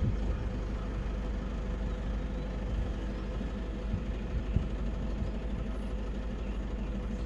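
Safari vehicle's engine running with a steady low hum.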